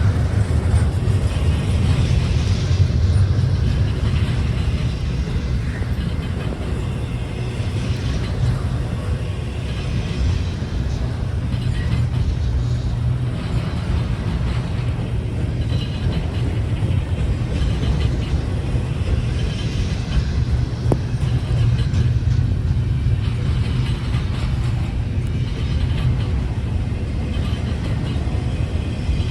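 Train running with a steady low rumble and a fainter hiss above it.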